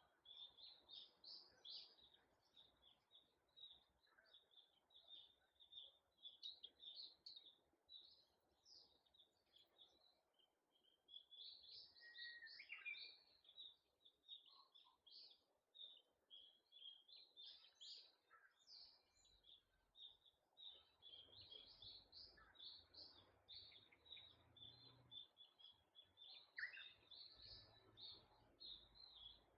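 Faint, continuous chorus of small birds chirping rapidly and overlapping. A low rumble joins about two-thirds of the way through.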